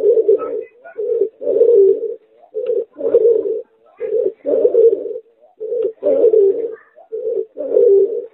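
A domestic pigeon × spotted dove hybrid cooing repeatedly, a short note followed by a longer one, about six times.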